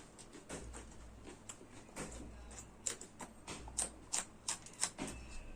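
Raw green chillies being bitten and chewed close to the microphone: irregular crisp crunches and wet mouth clicks, coming faster and louder in the second half.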